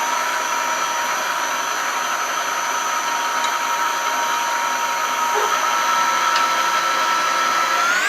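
Machine tool running steadily under cut, a constant high whine over a hiss, as it works through steel sleeve stock. Right at the end the whine starts to climb in pitch.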